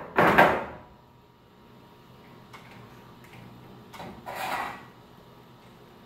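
Short metal scraping and sliding sounds from garage door torsion spring winding: one loud scrape of about half a second at the start, a few faint clicks, and a second scrape about four seconds in.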